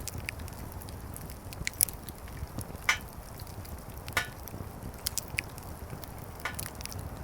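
Wood fire burning in a fire stand, crackling with scattered sharp pops over a steady low rumble.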